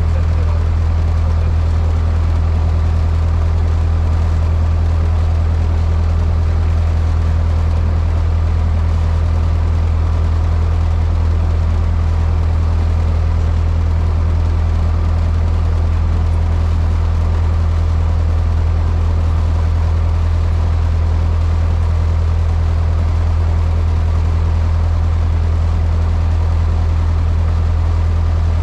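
Cessna 152's Lycoming O-235 piston engine and propeller running at a constant speed, heard inside the cockpit as a loud, unchanging low drone.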